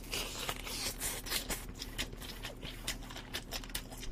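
Close-miked chewing of a crunchy piece of baked chicken: many small, irregular crunches and mouth clicks.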